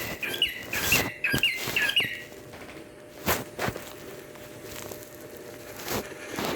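Cockatiel chirping a quick run of short whistled notes for about the first two seconds, then a few scattered sharp taps.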